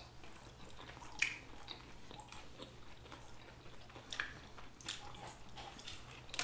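Faint chewing and mouth sounds of people eating sushi and a fried stuffed jalapeño, with scattered small clicks.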